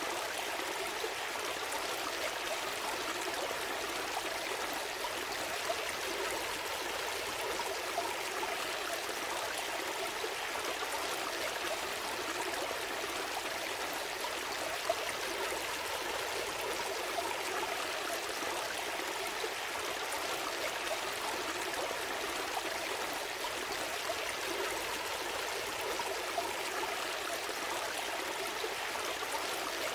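A gentle stream flowing steadily, with a constant trickling and babbling of water.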